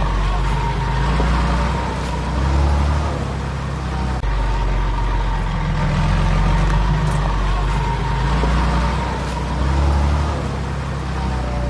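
Heavy earthmoving machine's diesel engine running steadily, swelling in loudness twice as it works under load.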